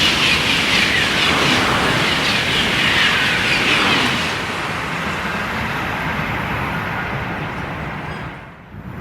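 High-speed TGV train passing through the station at speed: a loud rushing roar whose pitch falls as it goes by, easing after about four seconds and dropping away sharply near the end.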